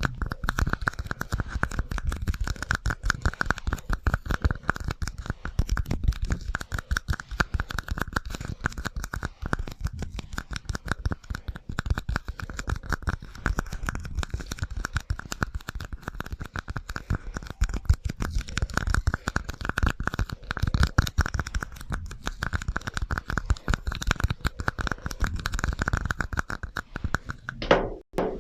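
Rapid, continuous scratching and tapping on an ASMR trigger object, run through an echo effect, with a steady ringing tone underneath. It breaks off briefly near the end.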